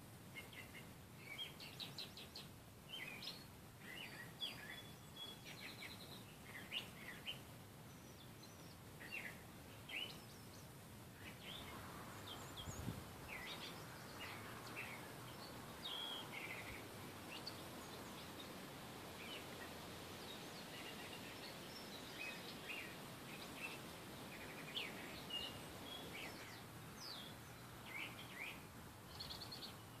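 Small birds chirping in short, scattered notes throughout, over a faint steady hiss that grows a little fuller from about twelve seconds in.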